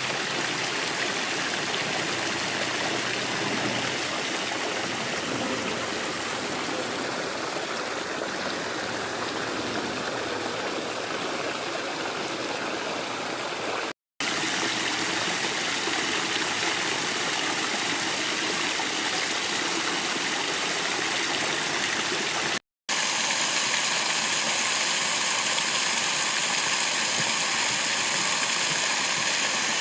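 Running water, a steady rushing noise that drops out briefly twice where the sound is cut, picking up again each time at much the same level.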